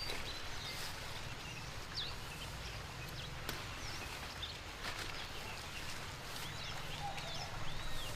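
Steady rain hiss with a low rumble, a few light knocks, and several short high chirps from a small bird or chick, mostly near the end.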